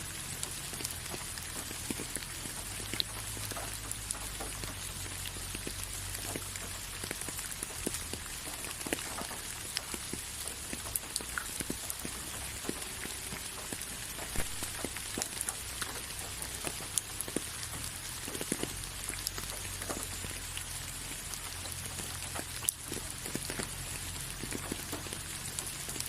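Steady rain falling: a constant hiss with many separate drops ticking on a surface.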